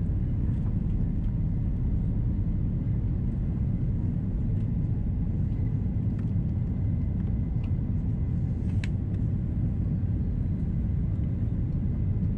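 Steady low rumble of an Airbus A330-343 airliner's cabin in flight on approach: engine and airflow noise heard from a window seat. A brief sharp click comes about nine seconds in.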